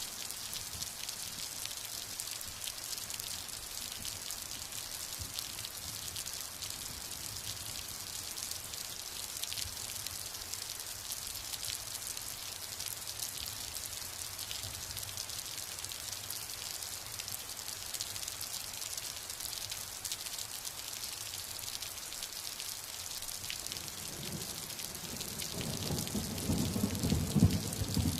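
Steady heavy rain with dense pattering drops, and from about 24 seconds in a rumble of thunder building up and growing louder near the end.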